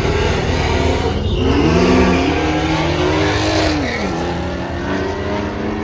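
Car engine revving hard under acceleration: its pitch climbs for a couple of seconds, falls sharply about four seconds in, then holds steady.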